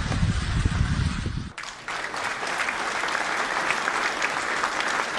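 Crowd applause, starting abruptly about a second and a half in and staying steady. Before it there is a low rumbling noise.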